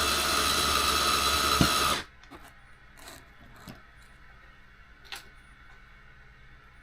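Electric screwdriver running steadily as it drives a screw into the RC car's plate, cutting off suddenly about two seconds in. A few faint clicks of small parts being handled follow.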